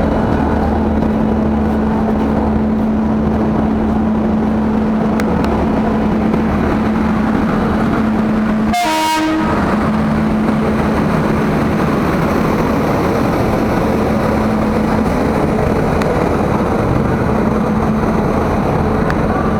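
Indian Railways express train running steadily, a continuous rumble with a constant hum, broken by a brief dropout about nine seconds in.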